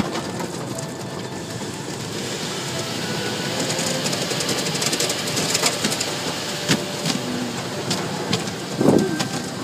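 Automatic car wash brushes spinning and scrubbing against the car body, with a steady wash of water and quick irregular slapping and clicking from the brush strips.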